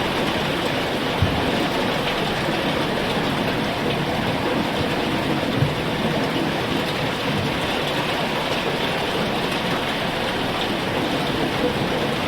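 Heavy rain falling steadily, with a couple of brief low knocks.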